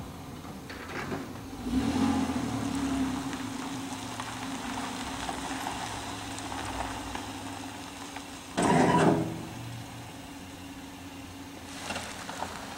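A motor vehicle engine running steadily, with a loud rushing burst of noise lasting under a second about two-thirds of the way through.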